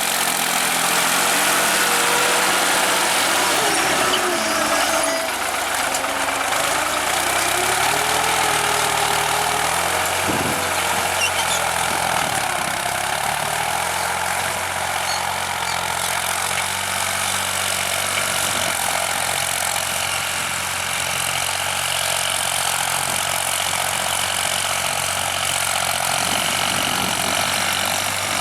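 New Holland TT55 tractor's diesel engine running steadily, its pitch wavering up and down through the first dozen seconds and then evening out.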